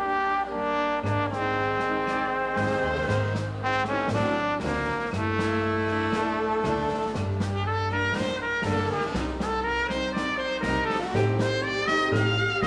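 Live dance band playing an instrumental passage: the brass section, trumpets and trombones, carries held melody notes over a line of low bass notes.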